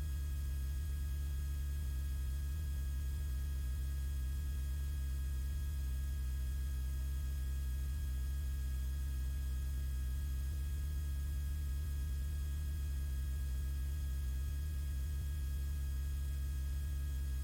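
Steady low drone of a Beechcraft Bonanza's piston engine and propeller in cruise, heard through the cockpit intercom, with a faint steady high whine over it.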